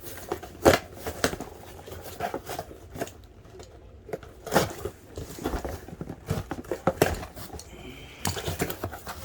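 A package being opened by hand: irregular crinkling and tearing of packaging with scattered clicks and light knocks.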